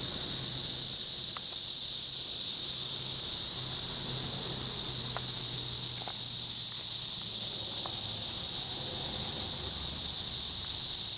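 Chorus of 17-year periodical cicadas: a steady, loud, high-pitched drone that holds at an even level throughout.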